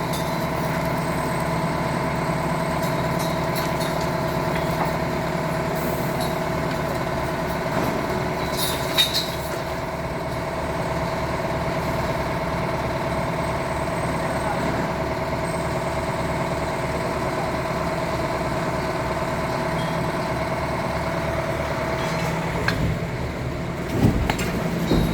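An engine of heavy machinery running steadily at idle, with a few brief clanks about a second in, around nine seconds in, and near the end.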